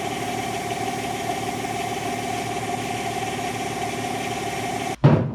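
Air compressor motor running steadily. It stops abruptly about five seconds in, followed by a short thump.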